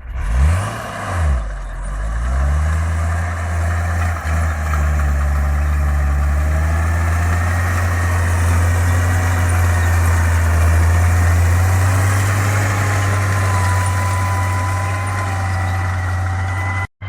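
Mercedes OM366 inline-six diesel in a DT-75 crawler tractor, blipped up and down twice and then held running steadily at a raised speed.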